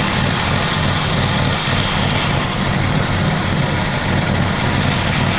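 Car engine running steadily at an even pitch, with a constant low hum and no change in speed.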